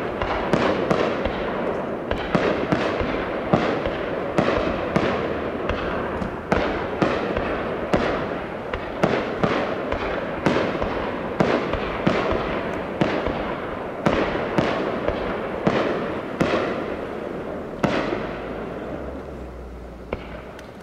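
Aerial firework shells bursting in quick succession: sharp bangs about two a second, each trailing off into an echoing rumble. The bangs thin out and the sound fades away in the last few seconds.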